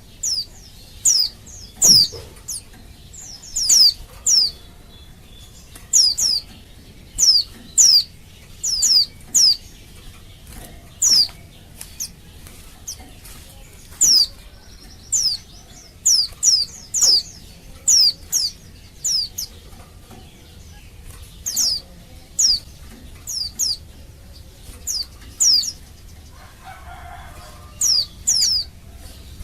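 Female white-eye (pleci) calling to males: short, high calls that sweep downward in pitch, given singly or in quick pairs and triples, repeated about every second with brief irregular pauses.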